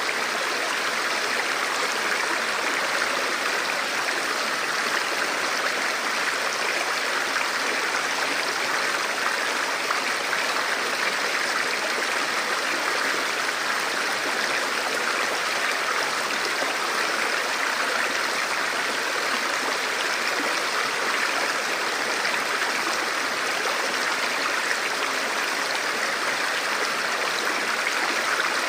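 A stream flowing steadily over rocks, an even rushing and splashing of water.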